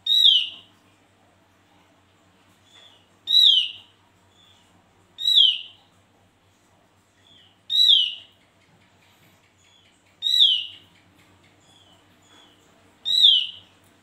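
Javan grey-throated white-eye (opior jawa) calling: six loud, sharp downslurred notes a few seconds apart, with soft short notes between them.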